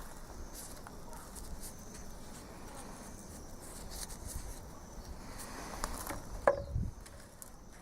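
Faint scattered clicks and light taps of small hard objects being handled, the loudest a single short ringing tap about six and a half seconds in.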